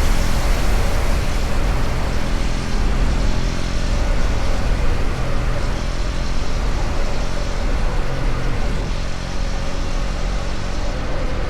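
KTM Duke 250's single-cylinder engine running at a steady cruising speed, holding a steady pitch under a dense, constant rush of road noise.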